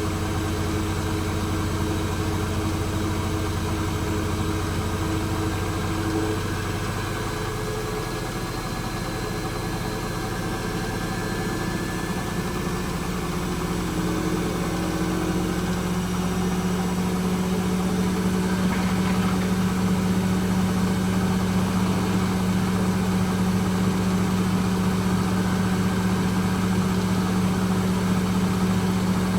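Hoover H-Wash 300 Plus washing machine running in its spin cycle, a steady motor and drum hum. About halfway through, the hum settles on a new pitch and grows louder, as the spin changes speed.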